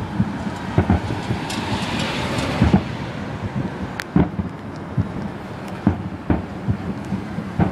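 Distant fireworks going off in irregular thumps and booms over the steady road noise of a moving car, with a brief hiss about two seconds in.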